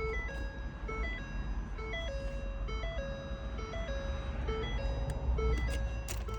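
Music playing from a car radio: a simple melody of clean held notes stepping up and down, over a steady low rumble.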